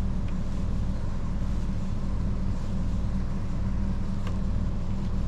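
Steady low mechanical hum of a machine running in the background, with a couple of faint clicks.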